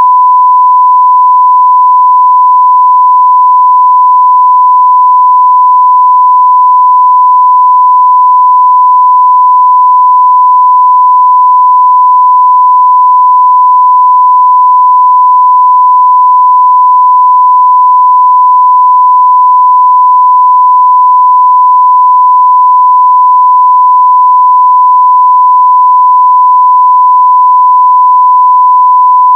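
Continuous 1 kHz sine-wave test tone at near full scale (0 dB reference level), a single steady pitch that does not change.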